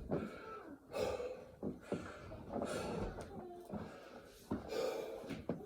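A man breathing hard and gasping, exhausted from doing burpees, with a heavy breath about once a second.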